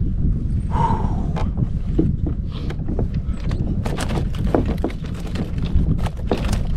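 A freshly caught trout thrashing in a kayak: rapid, irregular knocks and splashes begin about a second in. Low wind rumble on the microphone runs underneath.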